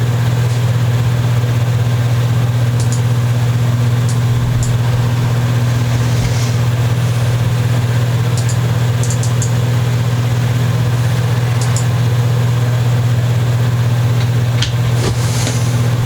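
Steady, loud low hum that holds one pitch throughout, with scattered faint light ticks over it.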